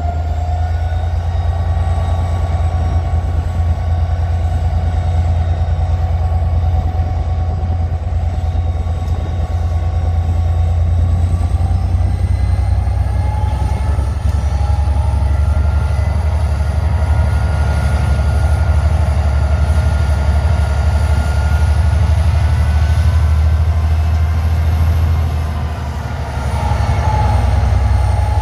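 Diesel train running steadily, a deep engine drone under a whine that slowly rises in pitch. Near the end the sound dips briefly and the whine settles lower.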